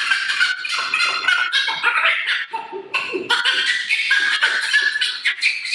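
A man imitating a bat with his voice: high-pitched squeaks and chirps in many short, quick calls.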